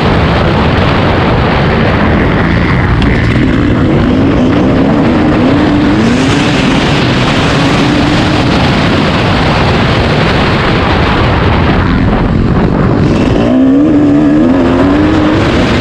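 Dirt bike engine revving up and down while riding the motocross track, loud and rough, its pitch repeatedly climbing and dropping.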